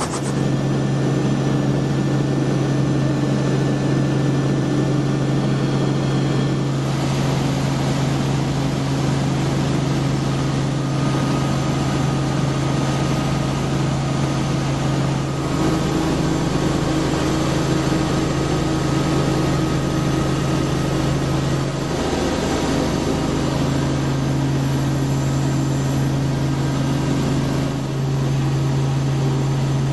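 Robinson R44 Raven II helicopter running, a steady engine and rotor drone with a strong low hum that shifts in tone a few times.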